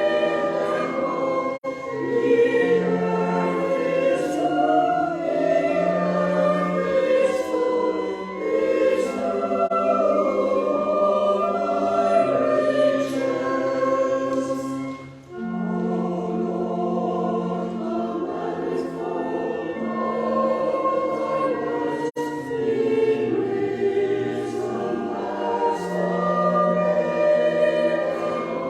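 Church congregation and choir singing a hymn together, with a short break between lines about halfway through.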